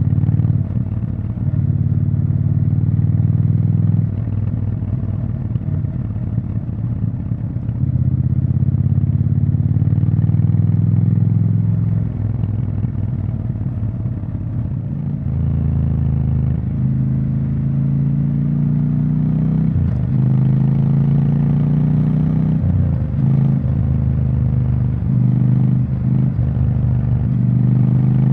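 Triumph Scrambler 1200 XE's 1200 cc parallel-twin engine running through its exhaust. It holds steady for stretches, then the revs rise and fall repeatedly in the second half.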